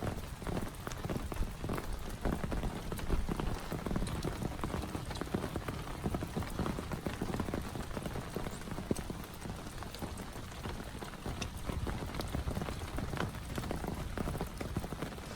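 Heavy rain falling steadily, with a dense, irregular patter of individual drops striking a close surface.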